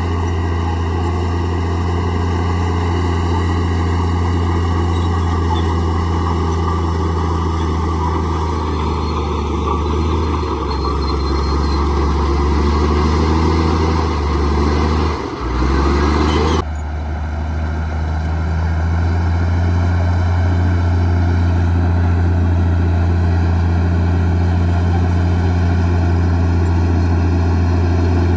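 Komatsu D58E bulldozer's diesel engine running steadily under work. Its pitch sags and recovers about fifteen seconds in, and just after, the upper hiss drops away abruptly.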